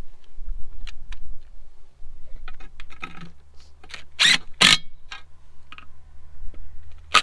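Hand tools working the bolts of a tractor engine's water jacket: scattered metallic clicks and scrapes, with two sharp clanks about four seconds in.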